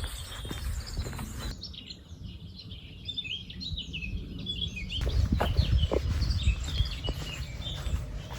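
Small songbirds chirping and singing, over a low rumble of wind on the phone's microphone. The rumble drops out suddenly for about three seconds, leaving the birdsong clear.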